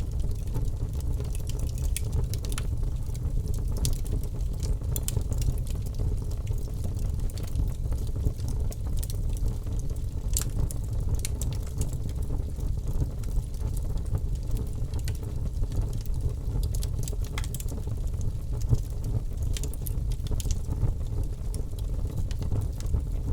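Wood fire crackling: sharp, irregular pops and snaps over a steady low rumble.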